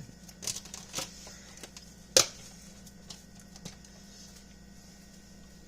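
A few light clicks and knocks of handling a meal, the loudest about two seconds in, then only a steady low hum.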